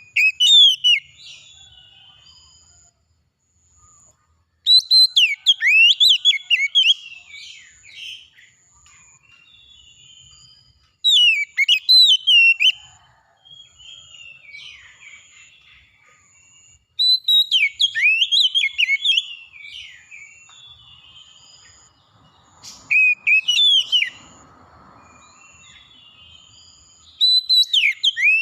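A songbird singing: short bursts of quick, varied whistled phrases about every five to six seconds, with a faint high note repeating steadily in the gaps.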